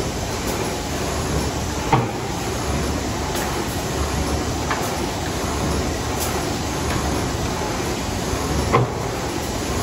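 Screen printing machine running with a steady mechanical noise, broken by a sharp clack about two seconds in and another near the end.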